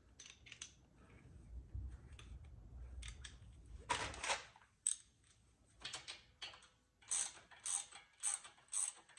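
Ratchet wrench with a 20 mm socket tightening a sway bar end-link nut: a regular run of clicks, about two a second, from about two-thirds of the way in. Before that come scattered metal tool clinks and one louder clank about 4 s in.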